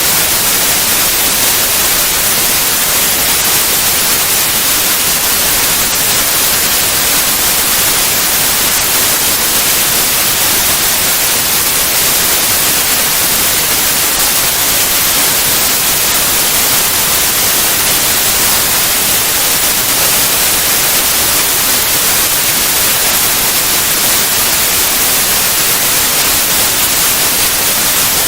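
Steady white noise: an even, unchanging hiss across all pitches, brightest in the highs.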